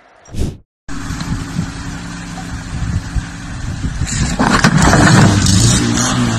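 Lada Niva's engine revving hard as the car is driven up wooden plank ramps into the back of a box truck. The revs climb and get louder about four seconds in.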